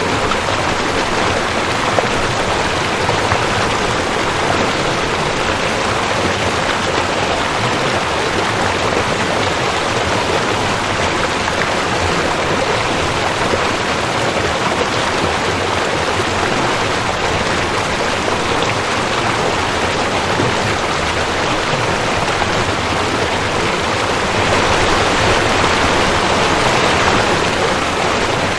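Rushing creek: a steady, dense rush of water running over rocks, swelling slightly louder near the end.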